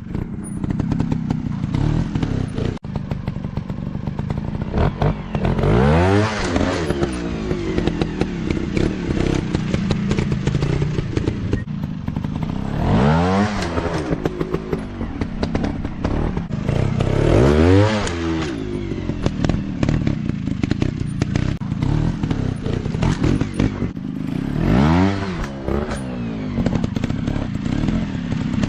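Dirt bike engines running steadily at low revs. Four times, several seconds apart, an engine revs up and back down.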